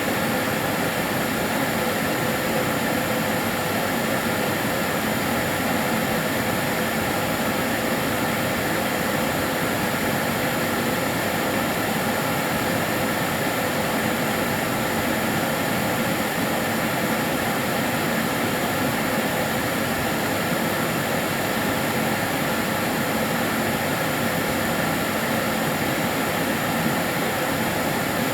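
Karcher DS 6 Premium water-filter vacuum cleaner running steadily: an even rushing motor and airflow noise with a faint steady whine over it.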